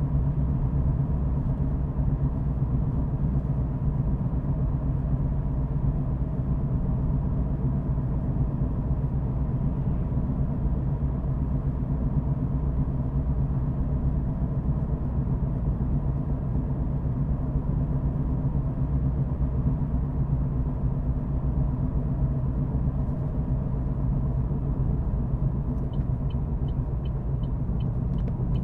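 Car driving: a steady low rumble of engine and road noise. Near the end a regular high ticking starts, about three ticks a second.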